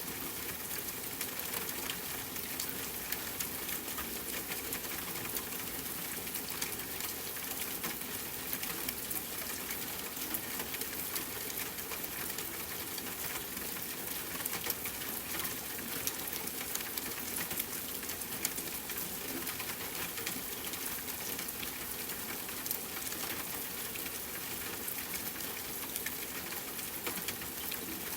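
Steady rain falling with a campfire burning: an even hiss dotted with frequent small sharp crackles.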